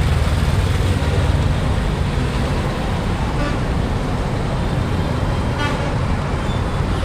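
Steady rumble of vehicles in busy street or station ambience, with faint voices and a couple of brief calls or tones in the middle.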